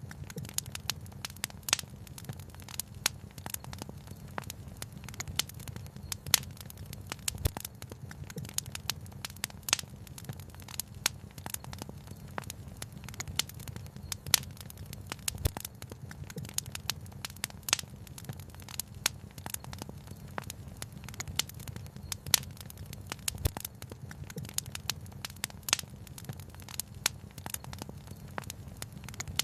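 Wood fire crackling, with many sharp irregular pops and snaps over a low, steady rumble.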